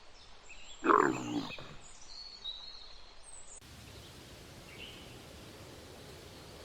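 An animal's single loud call about a second in, lasting about half a second, followed after a cut by a steady outdoor background hiss.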